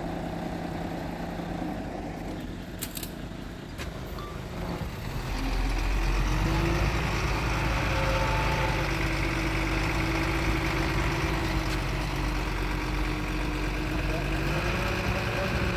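Heavy diesel earthmoving machinery running, a low, steady engine rumble that grows louder about five seconds in and then holds steady under load.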